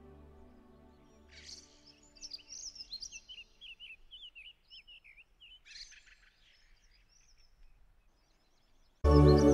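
Small birds chirping in a quick run of short twittering calls, over the fading tail of soft background music. Louder music cuts in abruptly near the end.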